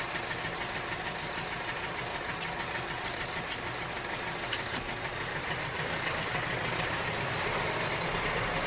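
A motor running steadily: an even, rough drone with a low hum.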